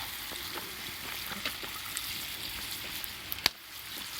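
Food sizzling on a grill over a wood fire, a steady hiss with a few sharp crackles, the sharpest about three and a half seconds in.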